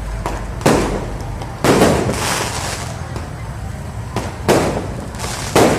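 Fireworks going off: four loud bangs at uneven gaps with a few smaller pops between them, the second bang followed by a second or so of crackling hiss.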